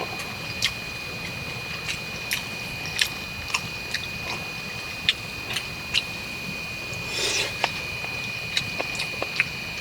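A person eating chicken coq au vin: chewing with sharp, irregular clicks, most likely cutlery against the dish. A faint, steady high whine runs underneath.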